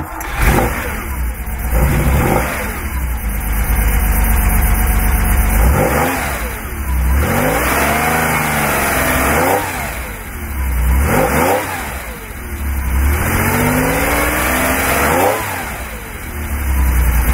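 1969 Porsche 911T's air-cooled 2.0-litre flat-six firing up, then revved again and again while standing. Some are short blips and some are longer sweeps that rise and fall over two or three seconds, with idle in between.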